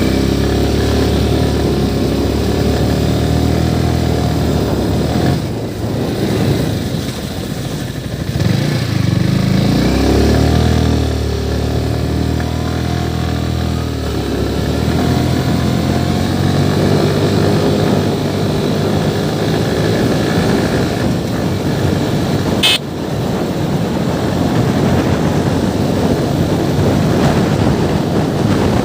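Motorcycle engine running on the move, its pitch dropping as it eases off around six seconds in, then rising as it pulls away again near ten seconds. A single sharp click comes about two-thirds of the way through.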